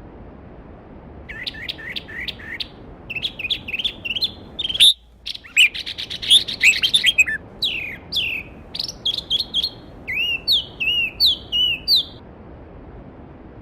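A songbird singing a long run of quick, varied chirps and trills over the steady rush of a stream. The water noise drops out for a moment about five seconds in. The song ends with a few repeated upward-sweeping notes.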